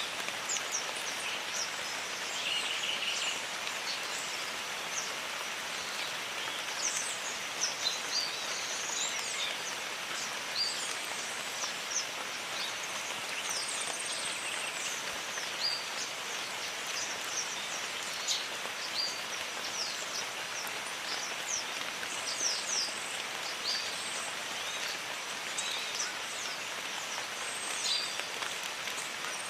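Rain falling steadily on foliage, with many birds chirping and calling in short, high notes throughout.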